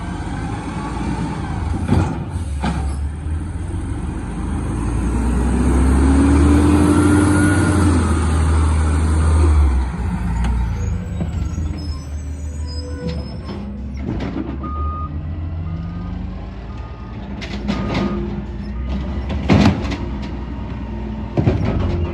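Garbage truck working: its engine revs up and holds high for several seconds, then drops back after about ten seconds. A reversing alarm then beeps about once a second, with several sharp knocks and clanks along the way.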